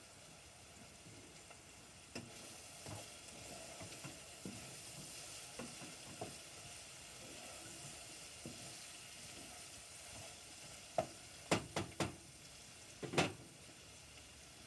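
Food sizzling in a pot on a gas burner while it is stirred with a utensil, with soft scraping strokes. Near the end, several sharp knocks of the utensil against the pot are the loudest sounds.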